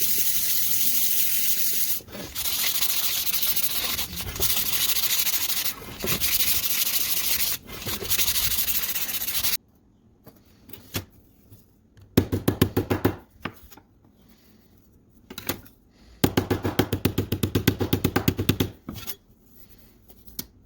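Sanding: a dense, steady hiss of abrasive on the scale's parts, broken by short pauses every couple of seconds. About halfway through it stops suddenly. Two bouts of rapid, evenly spaced scratching strokes follow.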